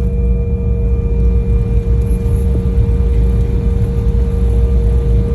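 Jet airliner cabin noise during landing: a steady deep rumble of the engines and airframe with a constant hum running through it.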